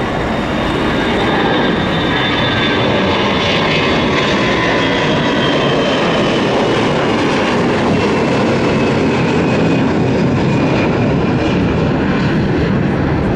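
Twin jet engines of a Delta Airbus A321 going by, a loud steady rumble with a high whine that slowly falls in pitch as it passes.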